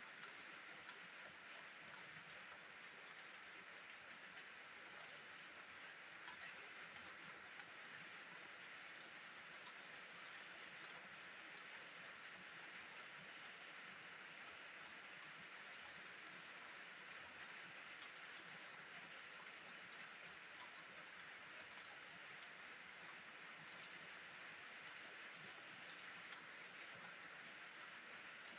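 Steady, faint rain: a continuous even hiss with scattered light ticks of individual drops.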